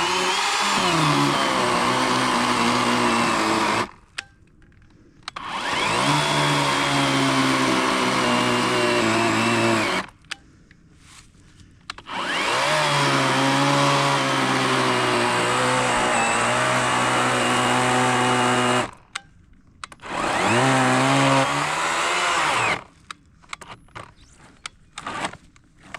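Worx 40-volt battery electric chainsaw with an 18-inch Oregon bar cutting a large fallen log, the motor whining in four runs of a few seconds each with short pauses between, its pitch sagging as the chain bites into the wood. A few small knocks near the end.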